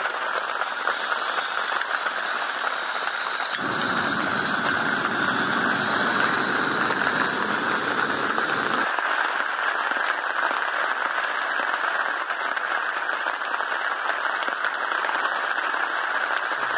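Steady hiss of heavy rain in stormy weather. A deeper rushing layer comes in sharply about three and a half seconds in and drops out about five seconds later.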